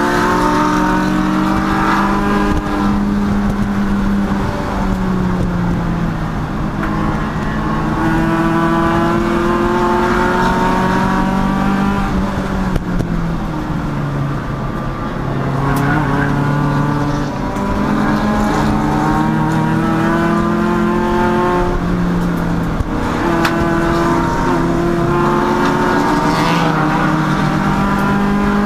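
Race car engine running hard on track, its pitch climbing again and again as it accelerates through the gears and falling back in between as it slows for corners.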